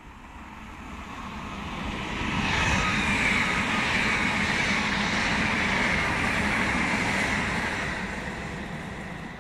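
Electric multiple-unit passenger train running past without stopping. Its rumble and wheel noise swell over about two seconds, hold, then fade, with a high whine that slides slightly lower in pitch as it goes by.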